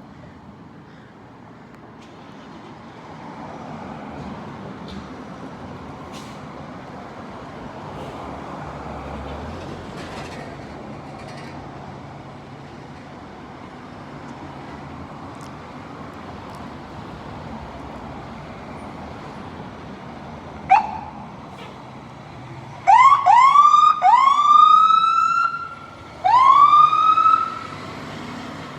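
Street traffic noise for most of the stretch, then a fire engine's electronic siren gives one short rising chirp, followed near the end by several loud rising whoops that level off, one after another.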